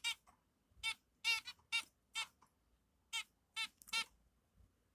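Newly hatched baby birds cheeping: about nine short, high peeps at an uneven pace, with quiet gaps between them.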